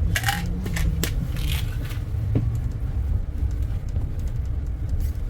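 Steady low rumble of a motor vehicle's engine and road noise, with a few short rattling hisses in the first second and a half and a single click a little later.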